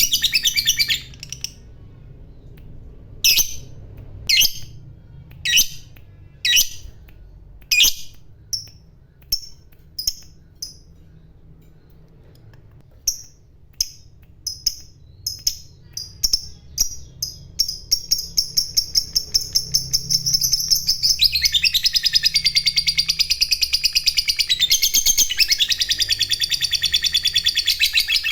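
Lovebird calling: separate sharp chirps about one a second, then after a short lull chirps that speed up into a long, rapid, continuous chattering trill, louder in the last third. This is the long 'ngekek' chatter that hobbyists prize as the sign of a bird in full song (gacor).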